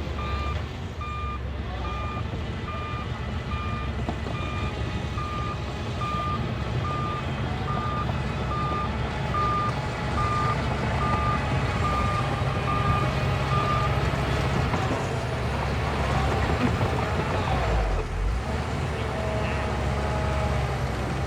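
Heavy diesel earthmoving machine running with its reverse alarm beeping steadily, roughly one beep a second, as it backs up. The beeping stops about two-thirds of the way through while the engine rumble carries on.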